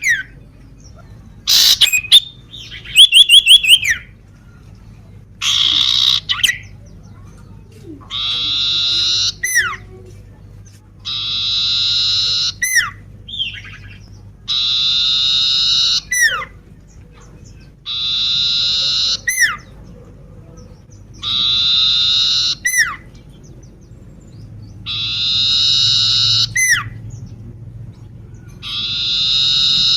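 Common iora (cipoh) singing: a harsh, buzzy note lasting about a second, then a sharp falling whistle, repeated about every three seconds, eight times. In the first few seconds there is a sharp click and a quick run of short notes.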